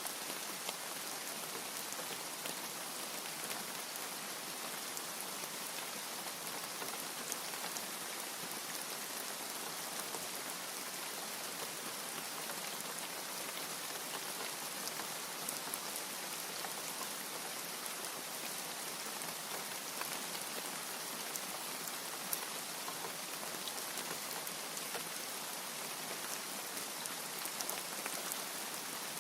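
Steady rain falling: an even, dense hiss dotted with many small drop ticks.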